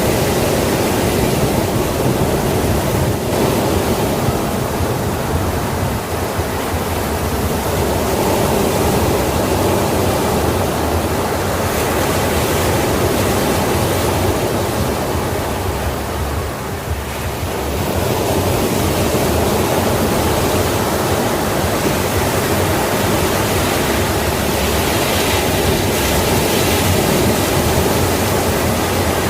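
Ocean waves washing onto a shore in a steady, continuous rush, easing slightly about two-thirds of the way through before building again.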